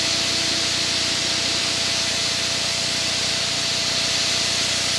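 Steady cockpit noise of a light propeller aircraft in flight: rushing airflow hiss over a low, even engine drone, with no change in power.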